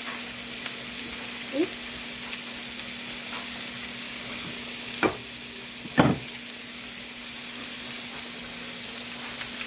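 Kielbasa, peppers and onions sizzling steadily on an electric indoor grill, under a steady low hum. Two short knocks come about five and six seconds in.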